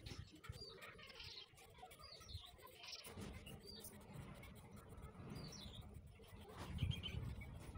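Faint bird chirps, short and scattered, over a low rumble.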